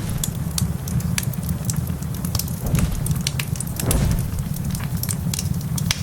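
Wood fire crackling in a fireplace: many sharp pops and snaps over a steady low rush, with a brief low swell about four seconds in.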